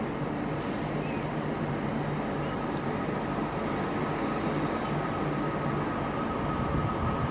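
A train running past on the line: a steady rumble, joined about two and a half seconds in by a thin, steady high whine.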